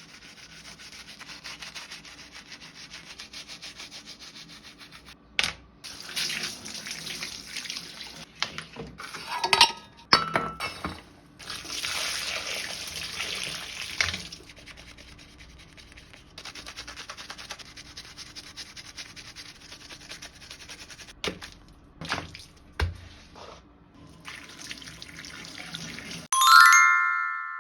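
Cleaning sounds: wet scrubbing and rubbing in regular strokes, with a few sharp clicks, over quiet background music. A bright chime sounds near the end.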